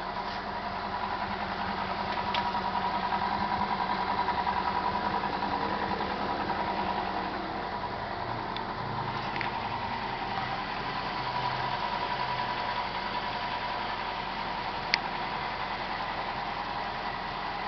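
Toyota 5K four-cylinder engine in a jeep idling steadily, a little louder for a few seconds after the start, with a sharp click about fifteen seconds in.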